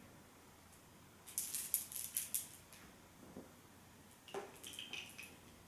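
Two short bursts of light clicking and clattering, as of small hard objects being handled, about a second in and again near the end.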